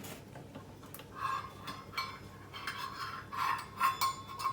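Irregular light handling noises of a measuring cup against a mixing bowl as half a cup of oil is poured in, with short rubbing and scraping sounds about every half second from about a second in.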